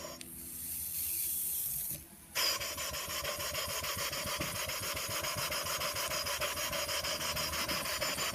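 Home-built brass and steel model mill engine (1" bore by 1 5/8" stroke) being fed by hose: a hiss for about two seconds, a brief dip, then the engine running with rapid, even exhaust beats, about six a second.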